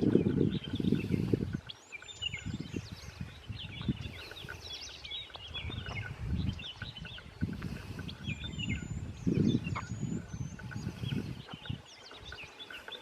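Several small birds chirping and trilling in quick, overlapping calls, with a low rumble that comes and goes, loudest near the start.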